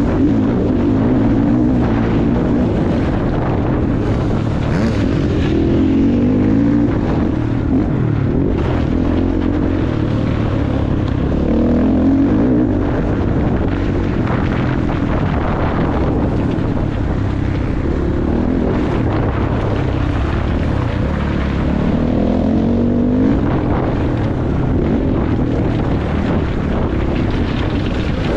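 Motocross bike engine being ridden hard, its pitch rising and falling repeatedly as the throttle is opened and shut, with wind noise over it.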